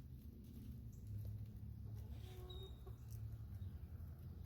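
Backyard hens clucking softly, a few faint short clucks around the middle, over a steady low background rumble.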